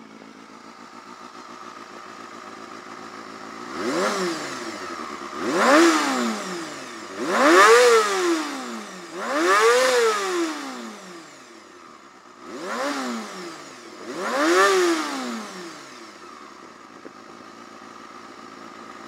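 Honda Hornet 250's inline-four engine breathing through an aftermarket Moto Gear muffler: idling, then blipped up six times in quick succession, each rev rising sharply and falling straight back, before settling back to idle.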